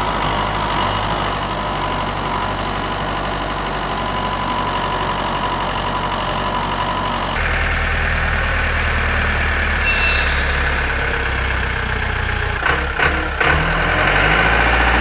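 Tractor engine running steadily. A little past halfway it cuts abruptly to a louder engine sound. A few knocks and some rising tones come in near the end.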